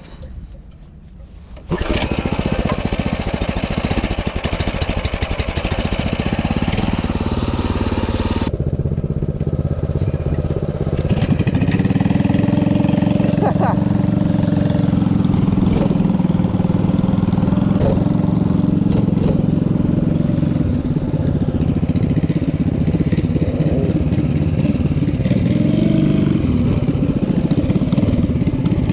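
Minibike's small engine running, starting abruptly about two seconds in and growing louder and steadier partway through.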